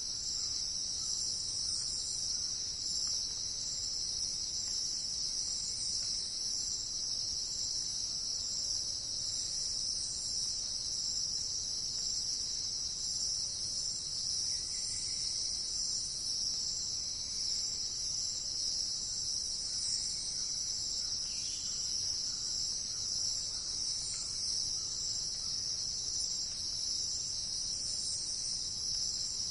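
Steady, high-pitched chorus of insects such as crickets, trilling without a break.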